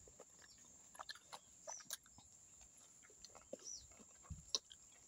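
Faint chewing and scattered mouth clicks of someone eating pasta, with a few short high chirps.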